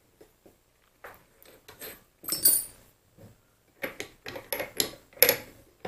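Small metal lathe parts being handled, giving a run of irregular light metallic clinks and knocks. Some ring briefly, and the loudest come about two and a half seconds in and near the end.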